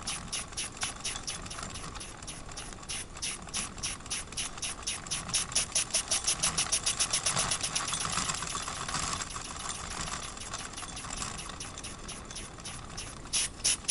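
Wilesco toy steam engine running, its exhaust chuffing in a quick, even rhythm that speeds up and gets louder about five seconds in, eases off, and quickens again near the end. Steam is escaping from a hole in the steam chest, left by a screw missing from the underside of the cylinder.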